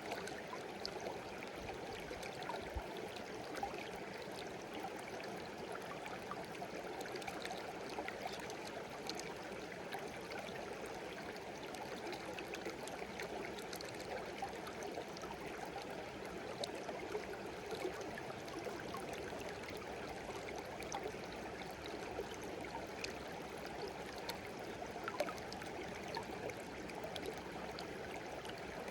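Shallow stream babbling and trickling steadily over stones, with small splashes and droplets scattered through it.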